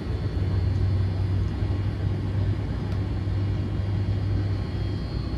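Air conditioner running, a steady low rumbling hum.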